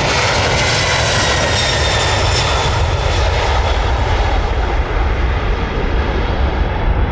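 Jet engines of an American Airlines Airbus A330 passing by, a loud steady noise whose whine falls in pitch as the aircraft moves away, its high end fading.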